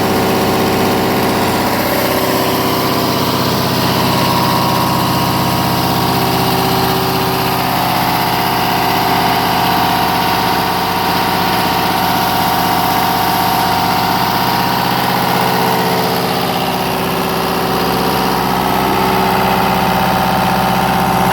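10 kW MEP-003A diesel generator set running steadily at a constant speed.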